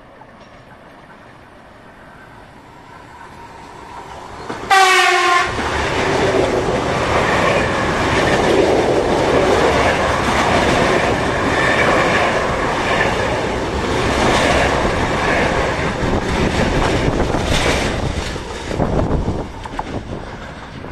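Electric commuter train approaching and sounding one short horn blast about five seconds in, then passing at arm's length: a loud rush of wheel and rail clatter for about thirteen seconds that fades near the end, where gusts buffet the microphone.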